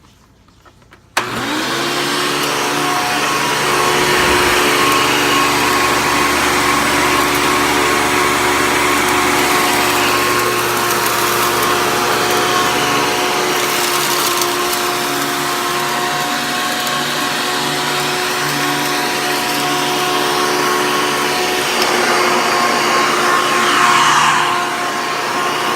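A Hoover Caddy Vac upright vacuum cleaner with a 12-amp motor is switched on about a second in. The motor spins up with a brief rising whine, then runs steadily with a whine over a hiss of air while it picks up dirt.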